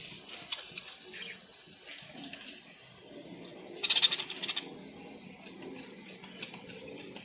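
Water from a hand-pumped pressure garden sprayer splashing over budgies, with small clicks and drips. About four seconds in, a brief burst of high budgie chatter is the loudest sound.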